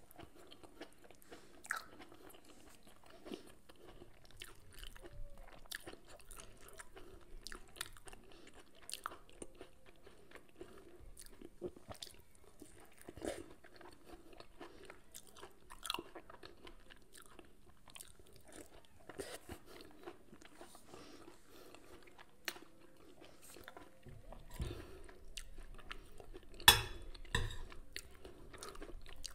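A person chewing and eating food, with soft crunches and scattered small clicks. A sharp click near the end is the loudest sound.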